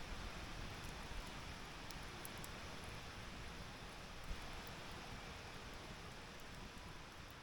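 Campfire of wood burning in a fire stand: a soft steady hiss with a few faint, sharp crackles, and a single small pop about four seconds in.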